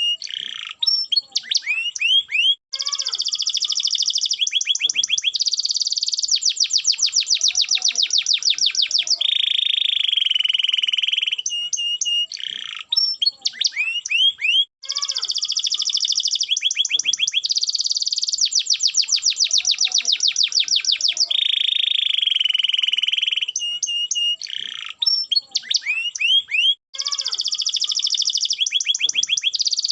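Domestic canary singing a long, high-pitched song of fast trills and rolls, broken by short pauses. The same run of phrases repeats about every twelve seconds, as a looped recording.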